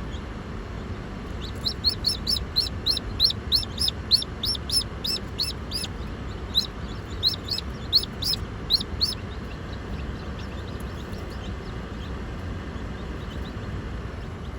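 Day-old chick peeping: a run of short, high peeps, about three a second, that stops a little past halfway, over a steady low background rumble.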